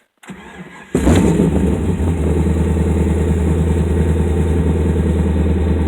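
Car engine with an off-road X-pipe and MagnaFlow glass-pack mufflers starting: a brief crank, then it catches suddenly about a second in and settles into a loud, steady idle.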